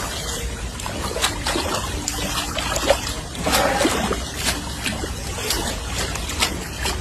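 Water splashing and trickling as a giant panda plays in it, with irregular small splashes over a steady low rumble.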